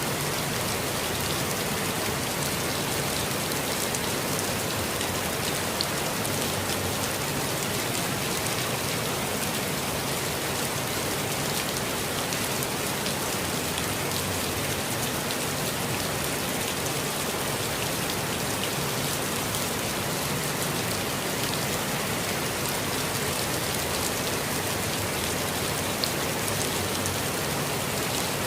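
Steady rainfall on foliage and ground, a dense even hiss with scattered patter of drops.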